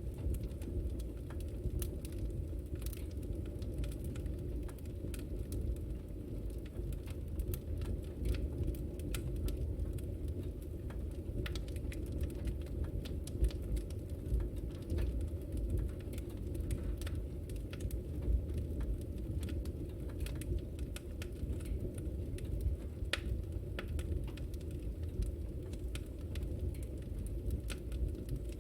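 Wood fire burning in a fireplace, with a steady low rumble and frequent small crackles and pops.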